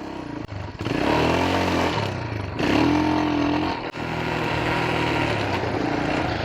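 Big-bore Royal Enfield Himalayan single-cylinder engine pulling away, its revs dropping at gear changes about two and four seconds in, then running steadily, with wind rush over the microphone.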